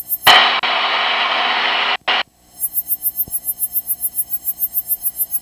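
Burst of radio static on the aircraft's comm radio, a loud even hiss lasting about two seconds with a brief dropout near the end before it cuts off suddenly. Underneath it, a steady rapid pulsing of cockpit noise at several beats a second.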